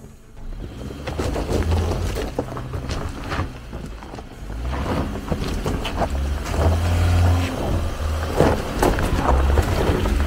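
Subaru Forester SJ's flat-four boxer engine working hard under load as the car crawls up a rocky step, its note swelling and easing in several surges. Stones crack and knock under the tyres throughout.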